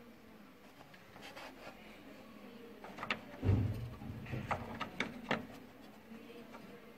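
Plastic clicks and knocks from an HP LaserJet P3005 printer's parts being handled during a gear set repair: a dull thump about three and a half seconds in, then several sharp clicks over the next two seconds.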